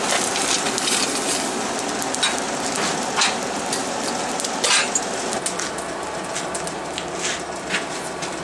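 Forge fire crackling steadily, with scattered sharp pops through it.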